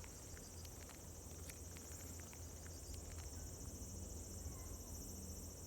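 Faint outdoor ambience: insects keep up a steady high drone, with scattered light clicks and ticks over a low rumble.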